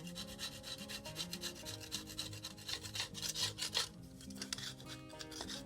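A stiff brush scrubbing in quick repeated strokes, with quiet background music underneath.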